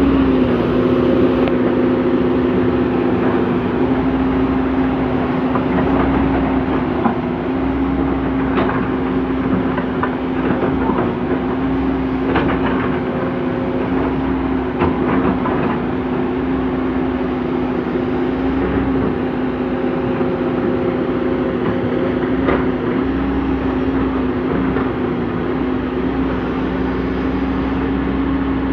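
Komatsu PC200CE hydraulic excavator's diesel engine running at a steady pitch while digging soil, with a handful of sharp knocks scattered through.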